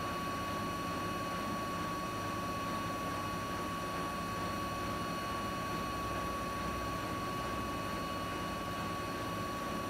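Siemens iQ300 8 kg, 1000 rpm washing machine spinning a load of laundry at about 1000 rpm: a steady running noise with a constant high whine. It is the normal spin sound of a fault-free machine, with no knocking or droning.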